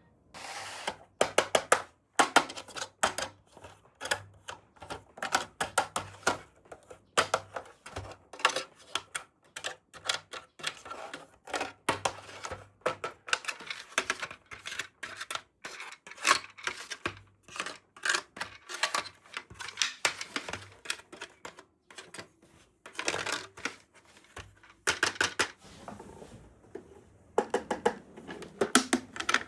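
Irregular rapid clicks, taps and rustles of small plastic toy pieces and packaging being handled, with denser clattering bursts about 23 s in and again near the end.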